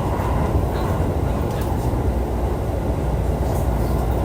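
JR East E531 series electric train running on the line: a steady low rumble of wheels on rail and running gear, with faint light ticks.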